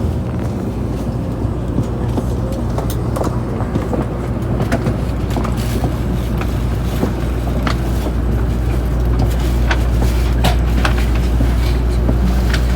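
Tokaido Shinkansen train running at speed, heard inside a passenger car: a steady low rumble that grows slightly louder about nine seconds in, with scattered light clicks and knocks.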